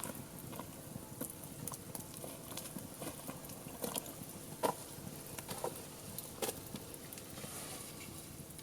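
Wood fire crackling and popping: irregular sharp pops over a faint hiss, the loudest about four and a half and six and a half seconds in.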